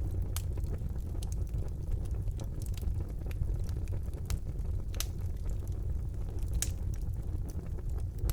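Wood fire burning in a fireplace: a steady low rush of flame with scattered sharp crackles and pops, the loudest about five seconds in and again a second and a half later.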